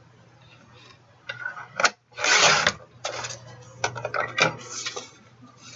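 Cardstock being cut on a paper trimmer: a few clicks and knocks as the paper and trimmer are set, a loud swishing cut stroke about two seconds in, then more clicks and short scraping strokes.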